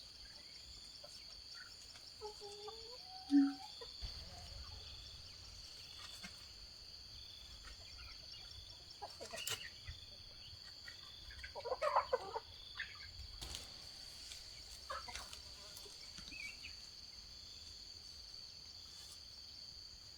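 Chickens clucking now and then over a steady high insect drone, with a couple of sharp knocks about halfway through.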